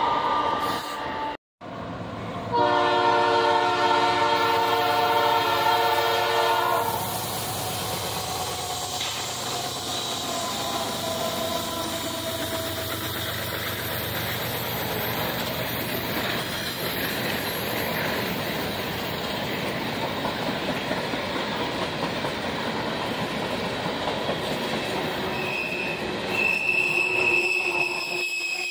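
Norfolk Southern freight train's air horn sounding one long chord for about four seconds. Then a string of empty coal hopper cars rolls past with steady wheel-on-rail noise. Near the end a high wheel squeal comes in.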